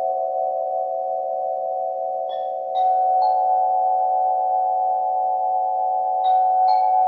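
Singing bowls ringing, several sustained tones overlapping. Three bowls are struck in quick succession a little past two seconds in and two more near the end, each strike adding a new tone to the held chord.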